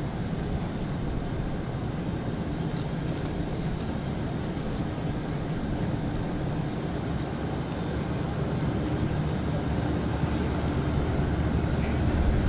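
Steady jet aircraft engine noise on an airport apron, a low hum and hiss with a faint high whine, growing a little louder near the end.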